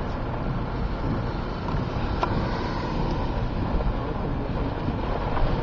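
Steady rushing noise inside a car with a window down, the sound of the car and of wind over the open window. A single sharp click about two seconds in.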